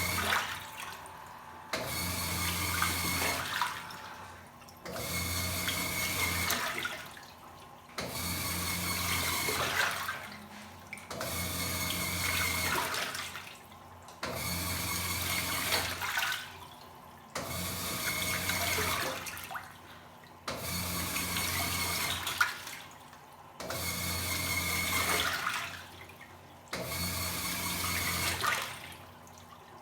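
Top-loading washing machine agitating a load in water: the motor hums and the water sloshes in strokes of about two seconds, each followed by a short pause, about every three seconds.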